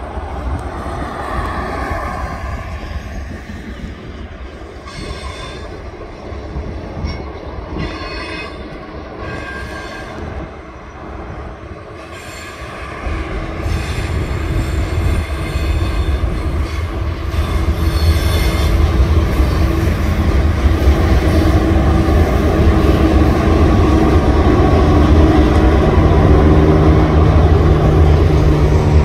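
TasRail freight train led by diesel-electric locomotives TR08 and TR11 approaching and passing close, with intermittent high wheel squeal in the first half. About halfway through the rumble of the locomotives' diesel engines and the rolling train grows louder and then holds steady as they pass.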